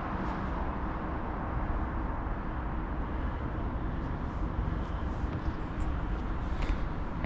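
Steady low rumble of city road traffic, with a few faint ticks near the end.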